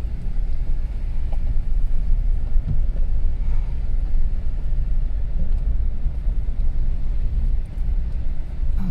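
A car driving, heard from inside the cabin: a steady low rumble of engine and road noise with a few faint knocks.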